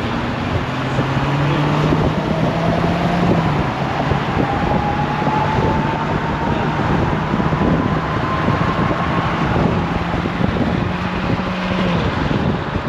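A car driving along: a steady engine drone under heavy road and wind noise, with a faint whine that climbs slowly in pitch as it goes.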